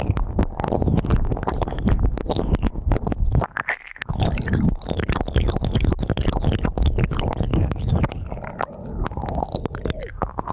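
Close-up ear-cleaning ASMR sounds: an ear pick scraping and rubbing in an ear microphone, giving dense crackling scratches over a heavy low rumble, with a brief pause about four seconds in.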